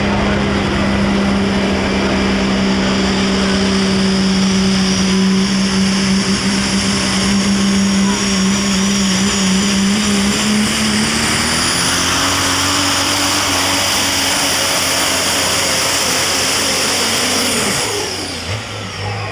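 Super stock diesel pulling truck engine at full throttle under load, with a high turbo whine above it. The engine note holds steady, climbs in pitch through the second half, then falls away suddenly near the end as the truck comes off the throttle.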